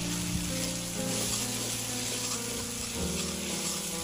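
Goat boti frying in a kadai, a steady sizzle as it is stirred with a ladle, under background music with long held notes that change twice.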